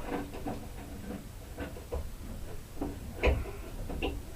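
Metal anti-chew strip being pried off wooden boards during demolition: scattered knocks and scrapes, with a ringing metal clank about three seconds in.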